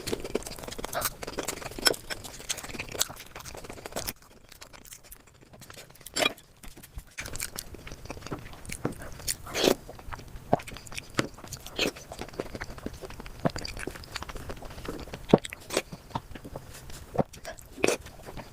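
A person eating close to the microphone: chewing and biting, with many irregular sharp wet clicks and crunches. It goes quieter for a couple of seconds about four seconds in, then the chewing picks up again.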